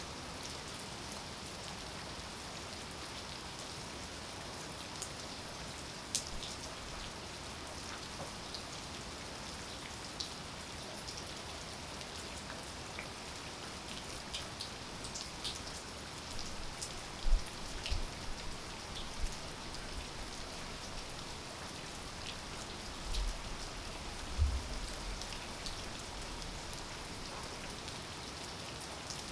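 Steady rain falling, with scattered sharp individual drops ticking over the even hiss. A few dull low thumps stand out around the middle and again a little later.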